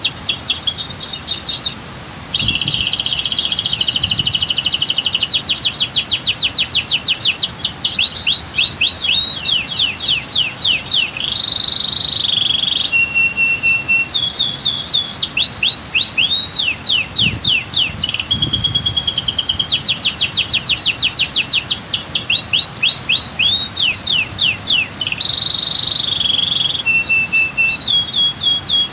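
Domestic canary singing a long song of rapid trills and rolling tours that change every second or two, with a brief pause about two seconds in, over a steady rush of waterfall water.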